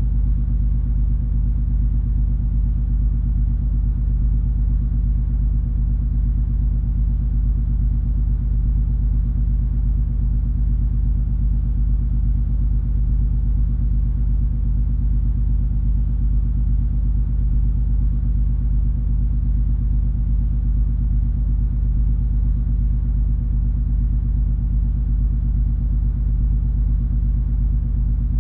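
Steady low rumble and hum of the MS Color Fantasy cruise ferry's diesel engines running under way, constant and without change.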